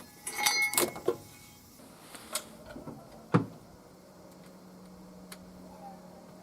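Metal hand tools clinking against car engine-bay parts while unbolting: a ringing metallic clatter about half a second in, then a few sharp clicks, the sharpest about three and a half seconds in, followed by a faint steady hum.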